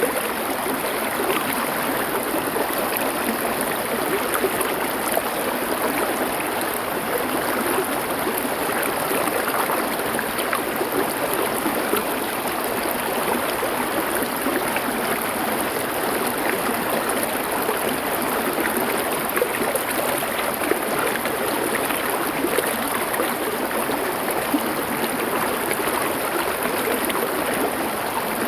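Stream water flowing steadily over stones, an even rushing and babbling.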